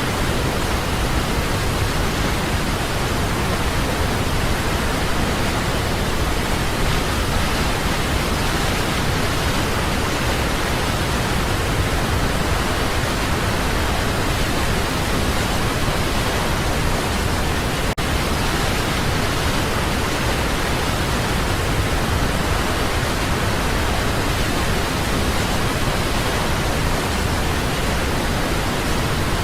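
Waterfall, a steady, even rushing of falling water with no change in level, broken only by a split-second dropout about two-thirds of the way through.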